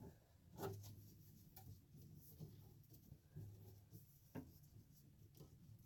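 Faint rubbing and scattered light clicks of Romex electrical cable being handled and straightened by hand, the sharpest click a little past four seconds in.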